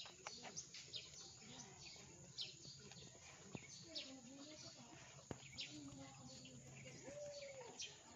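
Faint outdoor ambience of small birds chirping in short, high chirps many times over, with faint distant voices and a low steady hum underneath.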